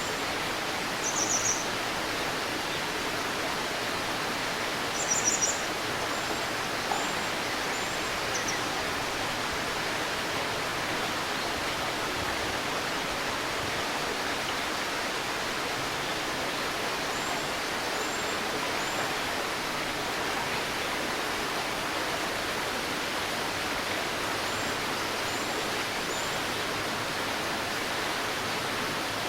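River babbling steadily over stones, with small birds chirping high above it: a short trilled burst about a second in, a louder one about five seconds in, and faint quick chirps in little groups of two or three now and then.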